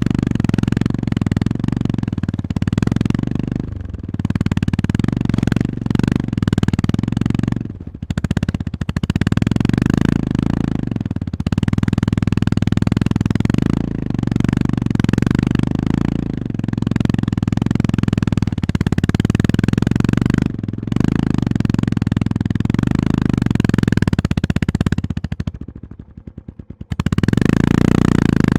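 Honda GB350S single-cylinder engine pulling under load on a rough dirt road, its throttle repeatedly closing and opening again; the engine drops away sharply near the end, then picks up once more.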